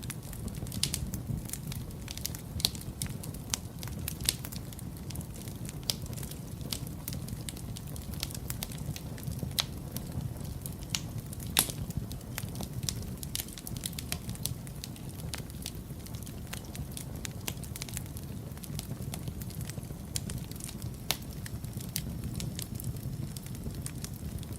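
Fireplace fire crackling: irregular sharp pops and snaps over a steady low rumble of the flames, with one louder snap about halfway through.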